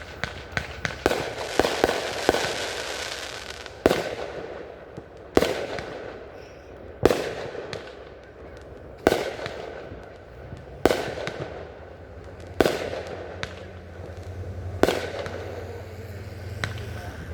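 Fireworks show: several quick bangs and crackling in the first few seconds, then single sharp aerial bursts about every two seconds, each trailing off in a rumbling echo.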